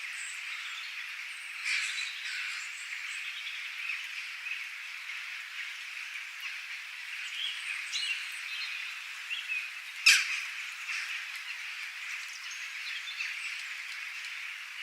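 Wild birds chirping and calling over a steady high-pitched background chorus, with one loud, sharp call about ten seconds in.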